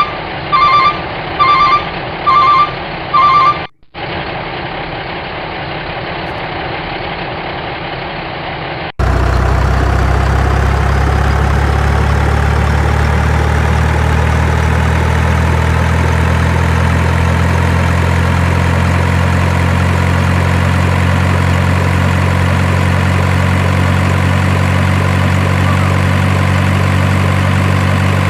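Truck reversing alarm beeping a little more than once a second over engine noise. After abrupt cuts, a truck engine runs, and from about nine seconds in a heavy engine runs loud, steady and low, its pitch slowly rising.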